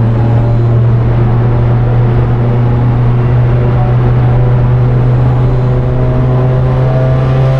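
A car engine running at a steady speed, with one even, held note.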